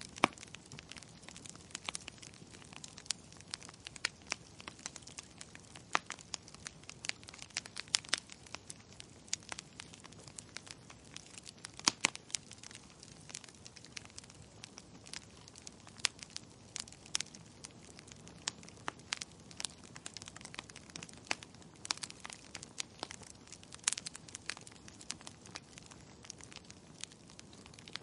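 Burning firewood crackling: irregular sharp pops and snaps, several a second at times, over a faint low hiss of the fire.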